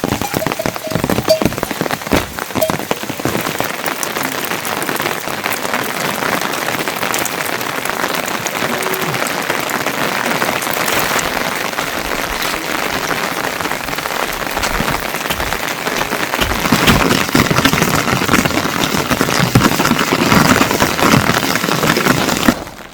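Heavy rain falling, a dense patter of drops striking surfaces, getting heavier about two-thirds of the way through and cutting off abruptly just before the end.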